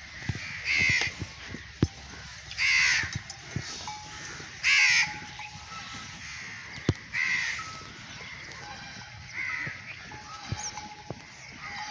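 Harsh bird calls, five of them about two seconds apart, the last two fainter. Scattered soft clicks of cattle chewing dry fodder run underneath.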